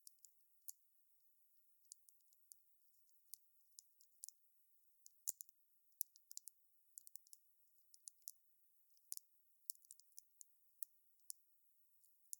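Wood fire crackling: faint, irregular sharp snaps and pops with no steady roar of flame beneath, the sharpest snap about five seconds in.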